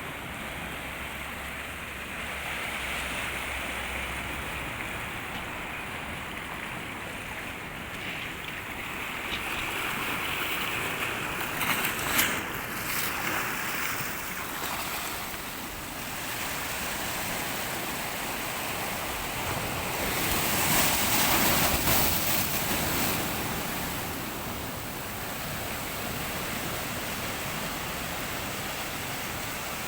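Sea waves breaking and washing on the shore, the surf swelling and easing, with one louder crash a little before the middle and a bigger surge about two-thirds of the way through. Wind buffets the microphone.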